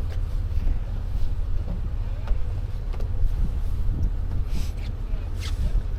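Low, steady rumble of an idling off-road vehicle engine, mixed with wind buffeting the microphone; faint voices are in the background.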